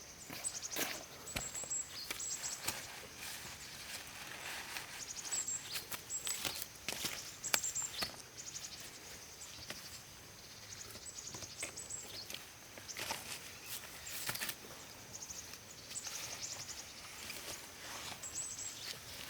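Irregular rustling and tapping steps outdoors, with short high-pitched chirps recurring every few seconds.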